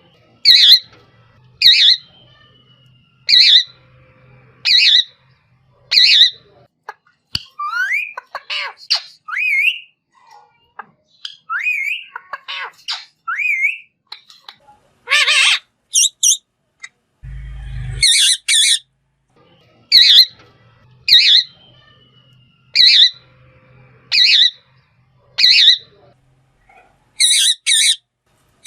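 Green parrot squawking in a run of short harsh calls, about one every second and a half, then giving a stretch of rising and falling whistled calls before the squawk series resumes. A short loud harsh burst comes just before two-thirds of the way through.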